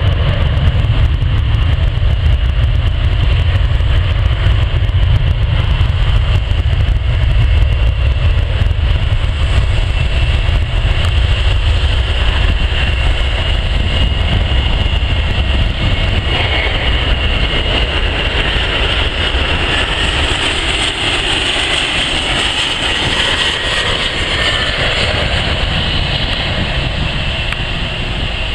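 Jet airliner engines running: a low rumble, with a high engine whine that grows louder over the second half.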